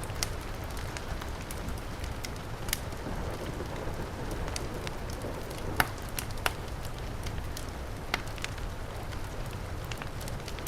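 Fire crackling, with irregular sharp pops, the loudest a little before the middle, over a steady hiss of heavy rain.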